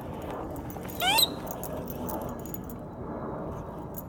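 A pitbull gives one short, high, rising whine about a second in.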